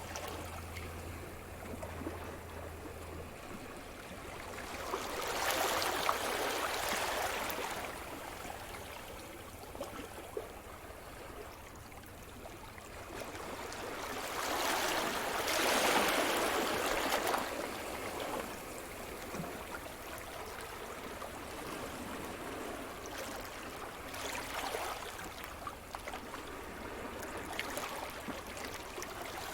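Sea surf: waves breaking and washing up the shore over a constant background wash. Three surges swell and fade, about five seconds in, a louder one about fifteen seconds in, and a smaller one about twenty-five seconds in.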